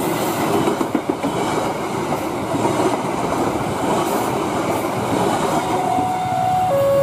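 Passenger train carriages rolling past at close range: steel wheels clattering over the rail joints with a steady rumble of the running gear. Near the end a two-tone alarm starts, alternating high and low about once a second.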